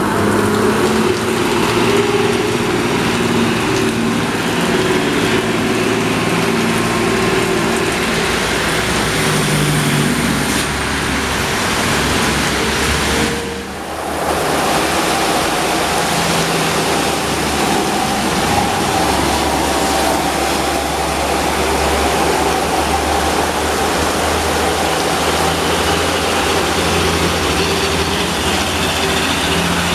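Heavy diesel truck engine running under load on a steep climb, over a steady hiss of rain. The sound drops briefly about halfway through, and the engine note is different after that.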